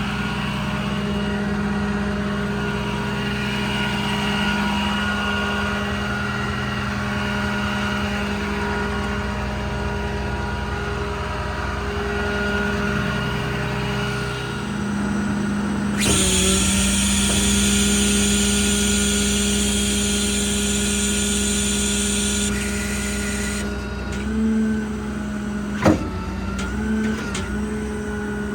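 Diesel truck engine idling steadily. About halfway through, a loud hiss starts and runs for about seven seconds, and a single sharp click comes near the end.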